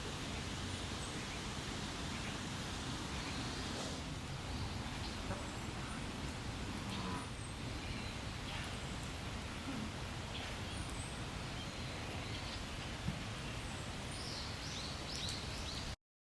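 Outdoor rural ambience: a steady hiss with scattered faint high animal calls, a few short calls near the end. The sound cuts off abruptly just before the end.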